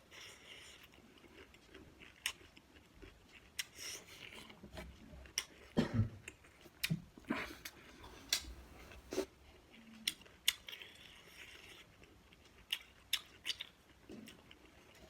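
Close-up eating sounds: chewing with scattered sharp clicks and smacks at an irregular pace, and a louder low thump about six seconds in.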